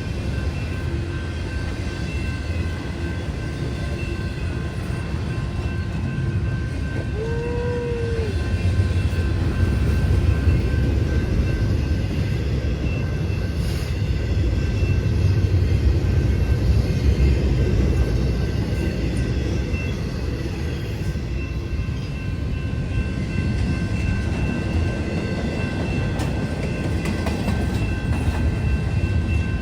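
Freight train rolling past: a steady low rumble of railcars on the track, with a short rising-and-falling tone about seven seconds in.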